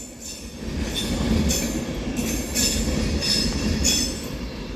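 A train moving through the station: a steady rail rumble that builds about half a second in, with faint intermittent high squeals of wheels on the rails.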